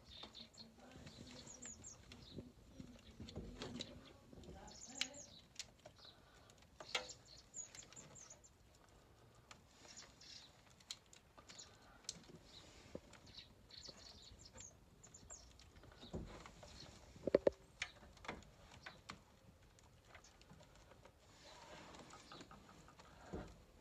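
Scattered light clicks, taps and rustles of wires and small parts being handled and fed through the stairlift's chassis, with the sharpest cluster of clicks about two-thirds of the way through.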